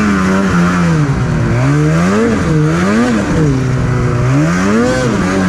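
Snowmobile engine revving up and down as the throttle is worked while riding through snow, its pitch swelling and dropping about four times.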